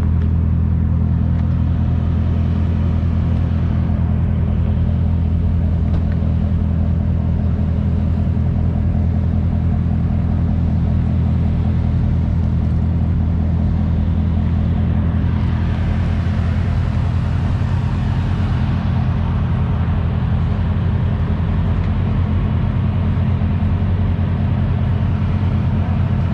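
A car engine idling steadily close by, a deep even rumble that holds one pitch. About sixteen seconds in, a rushing noise swells for a few seconds and fades.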